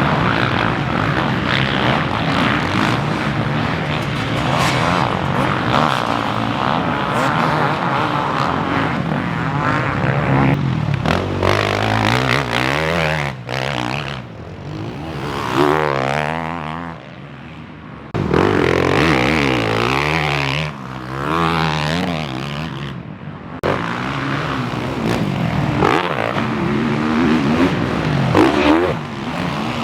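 Several motocross dirt bikes racing on the track, engines revving up and down as they pass, with a few brief lulls in the middle.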